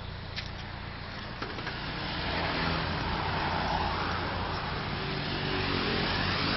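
A motor vehicle running close by. Its engine hum and road noise grow louder about two seconds in and then hold steady.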